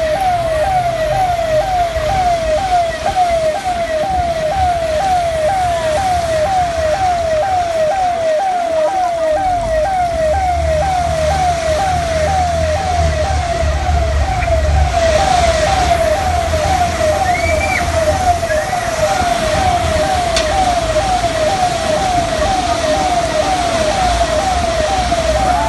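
Siren sounding continuously in quick, evenly repeated pitch sweeps, about two a second. A low rumble runs underneath for several seconds midway.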